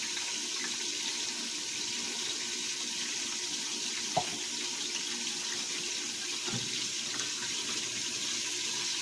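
Chicken liver frying in olive oil, a steady even sizzle with a single small click about four seconds in.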